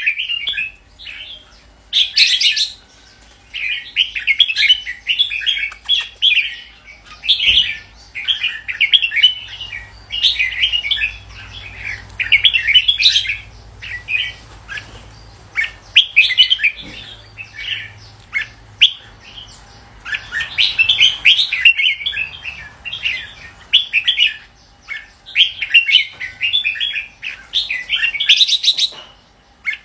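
Red-whiskered bulbul singing: a long run of short, quick phrases, each about a second long, repeated one after another with brief pauses between them.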